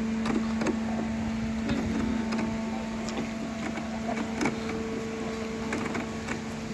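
Steady mechanical hum holding one pitch, with a few fainter higher tones over it and scattered light clicks and knocks.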